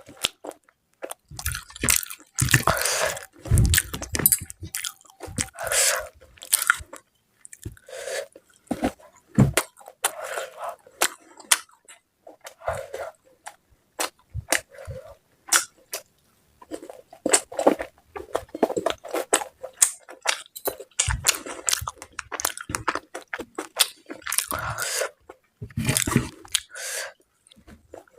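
Close-miked eating sounds: a person chewing food, with irregular wet mouth clicks and short bursts throughout.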